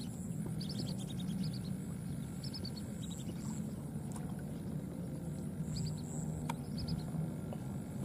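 A small bird repeatedly sings quick runs of three to five high chirps, each run stepping down in pitch, over a steady low rumble.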